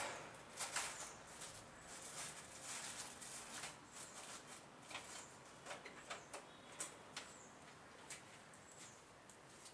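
Light, irregular clicks and taps of small engine parts and hand tools being handled during Honda Chaly engine assembly, a few of them with a brief high ring.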